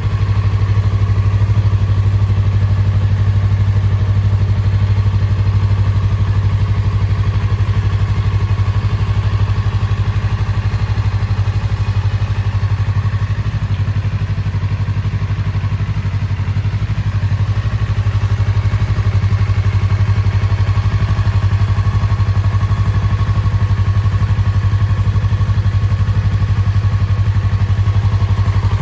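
Yamaha YZF-R25's 249 cc parallel-twin engine idling steadily, its note holding one even pitch with no revs.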